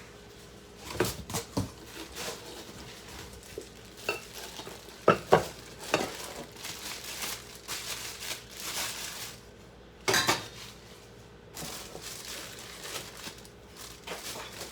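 Metal cookware being handled: pots, pans and lids knocking and clinking against each other in a series of sharp clanks, the loudest pair about five seconds in.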